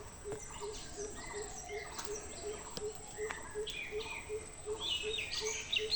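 Several birds chirping and calling, the chirps growing busier near the end, over a low note repeated evenly about three to four times a second and a faint steady high whine.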